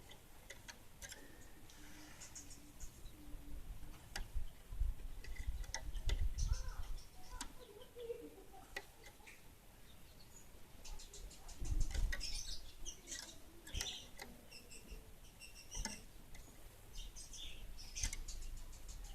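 Kemade bunga api songbird chirping in quick, high-pitched notes and rapid trills. Sharp clicks and a couple of low bumps come in between the calls.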